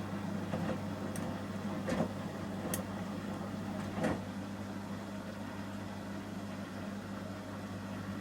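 Samsung front-loading washing machine in its Ecobubble detergent stage: a steady motor hum while the drum turns, with a few brief soft knocks of the wet load tumbling in the first half.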